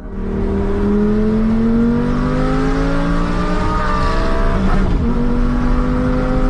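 Lamborghini Gallardo's V10 engine pulling under acceleration, its note climbing steadily for nearly five seconds. A brief break in the note follows, like a gear change, and then it runs on at a steadier pitch.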